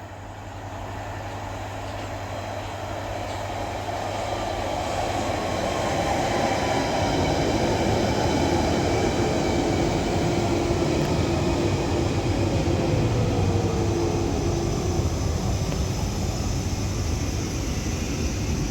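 London Underground 1992 stock train arriving at the platform, getting louder over the first few seconds. Its whine falls steadily in pitch as the train slows, over a steady rumble.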